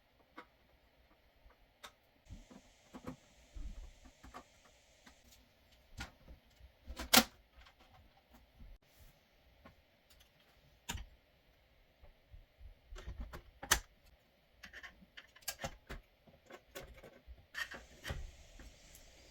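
Irregular clicks, taps and knocks of small hard parts being handled, with two louder knocks about 7 and 14 seconds in.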